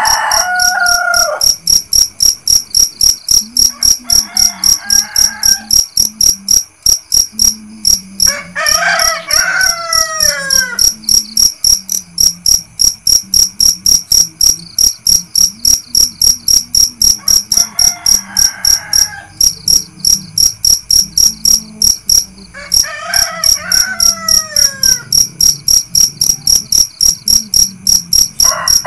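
Crickets chirping steadily in a fast, high-pitched pulsing rhythm, several chirps a second, while roosters crow repeatedly: loud crows about nine and twenty-three seconds in, fainter, more distant ones around four and eighteen seconds, and another starting near the end.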